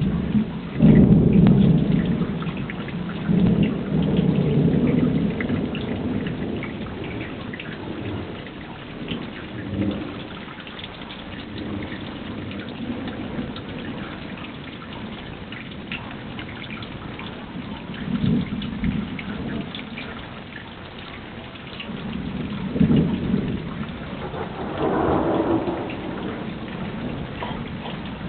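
Thunder rumbling over steady rain during a thunderstorm. A long, loud roll of thunder comes in the first several seconds, and shorter rumbles follow past the middle and near the end, with the rain falling throughout.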